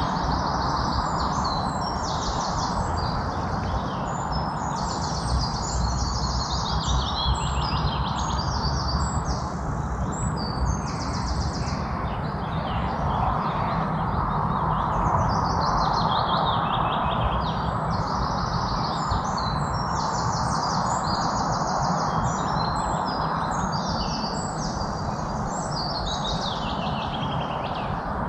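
Several songbirds chirping and singing in overlapping fast trills and quick runs of high notes, some falling in pitch. They sound over a steady background rush of noise.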